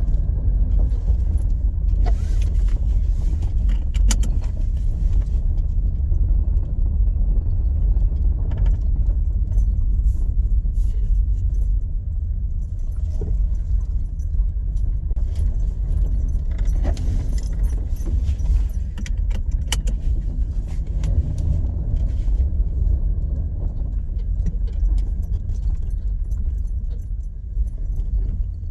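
Strong wind buffeting the microphone, a heavy steady low rumble, with scattered sharp clicks and rattles.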